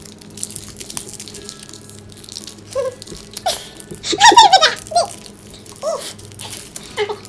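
Children laughing and giggling in short bursts, loudest about four seconds in, with a few faint clicks and rattles in the first seconds.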